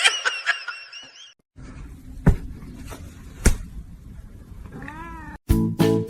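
Cat meowing: a drawn-out, wavering call in the first second, then after a cut two sharp knocks and a short meow that rises and falls. Music with a steady beat starts near the end.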